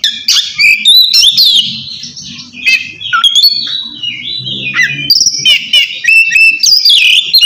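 Oriental magpie-robin (kacer) singing a rapid run of loud whistled notes that slur sharply up and down, mixed with short harsh clicks: the 'ngeplong' song.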